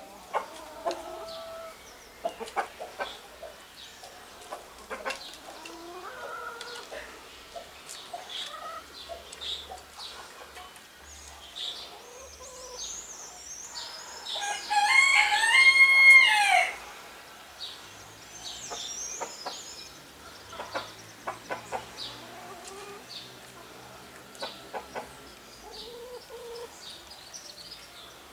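Birds calling: scattered short chirps and clucks throughout, and about halfway through one loud, drawn-out crowing call of about two seconds that rises at the start and drops at the end.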